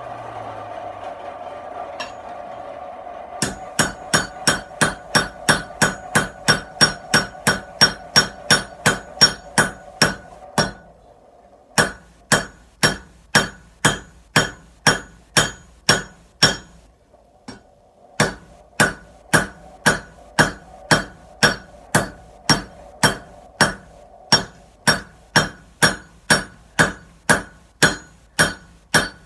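Hand hammer striking hot steel on an anvil while forging a Damascus billet: quick, even blows at about three a second, starting a few seconds in and stopping twice briefly before going on.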